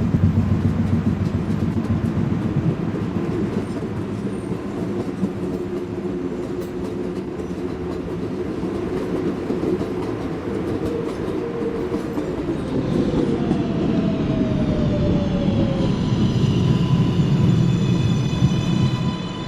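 R142A subway train running with a steady low rumble. Near the end, a stack of high whining tones from the motors falls in pitch, as when the train slows.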